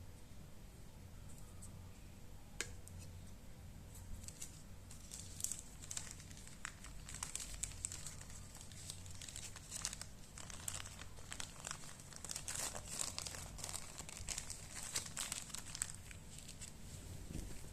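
Packing material being crumpled and handled, with quick irregular crinkling and crackling that starts about four seconds in after a single click.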